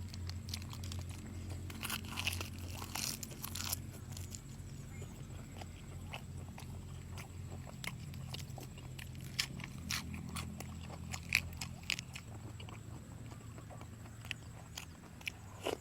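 Close-miked eating of soy-sauce-pickled seafood: crunchy bites and wet chewing, with a burst of crackling about two to four seconds in and scattered sharp clicks after it, over a steady low hum.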